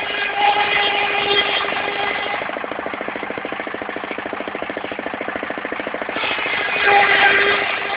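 Portable circular sawmill running steadily, its engine pulsing at a fast even rhythm. During the first two seconds and again from about six seconds in, the blade cuts through timber, adding a higher whine and hiss over the engine.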